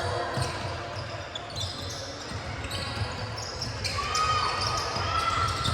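Indoor basketball game: a ball bouncing on the court and sneakers squeaking, over a background of voices echoing in the gym.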